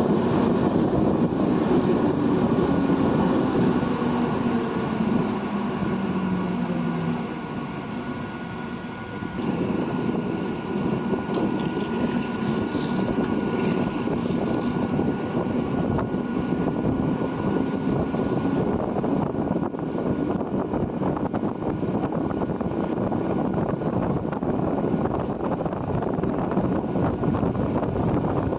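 Indian Railways train running past on the track, a steady rumble of wheels on rails, with a falling tone over the first few seconds and a brief lull about nine seconds in.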